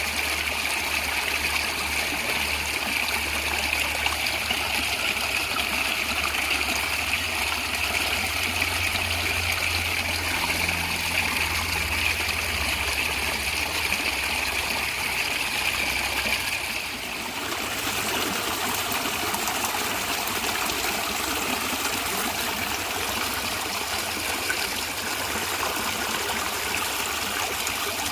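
Stream water running and gurgling steadily. The sound changes abruptly about two-thirds of the way through, losing some of its low rumble and its bright hiss.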